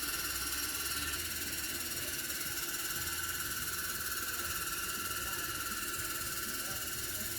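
Steady ambient background with a low hum under an even high-pitched hiss, with no distinct events.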